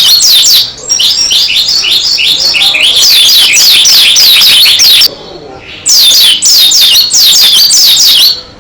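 Pleci dakun white-eye singing vigorously: loud, fast runs of high-pitched descending chirps, in three bursts with short breaks about a second in and about five seconds in.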